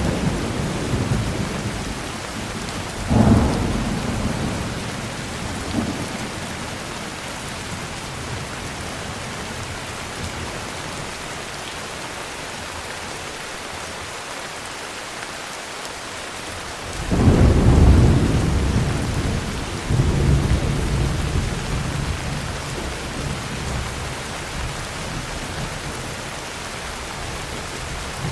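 Heavy rain falling steadily, with thunder. There is a sharp clap about three seconds in and a faint one near six seconds. A long rolling rumble starts about seventeen seconds in, swells again a few seconds later, then fades away.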